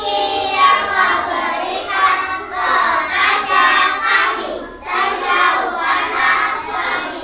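A group of young children singing a prayer together, in unison.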